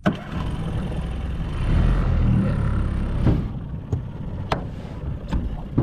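A brand-new Yamaha 20 hp tiller outboard running under throttle as the johnboat gets up on plane during the motor's break-in, with a dense rumble that grows louder about two seconds in. Several sharp knocks cut through in the second half.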